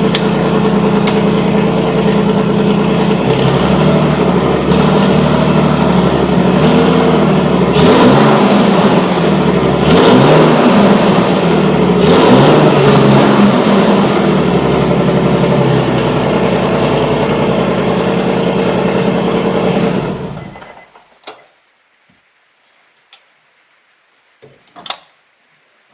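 Nissan 350Z's V6 running through a newly fitted Invidia Gemini cat-back exhaust with a muffler, idling steadily and blipped up in three short revs about eight, ten and twelve seconds in. The engine is switched off about twenty seconds in, leaving a few faint clicks.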